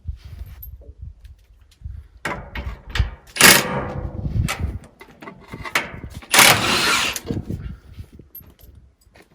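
A power tool, likely a cordless impact wrench, running in three or four short bursts while loosening drain bolts, with scattered clanks of tools and metal in between.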